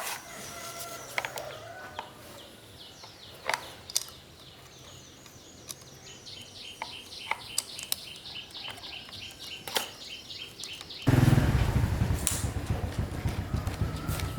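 A bird chirps repeatedly over a few light clicks. About eleven seconds in, the restored petrol lawn mower engine starts suddenly and keeps running with a loud, rapid low pulsing.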